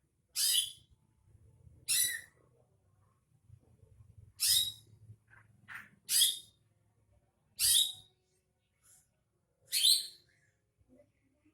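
Greater green leafbird (cucak ijo) calling: six short, bright calls repeated every one and a half to two seconds, with a fainter call in between.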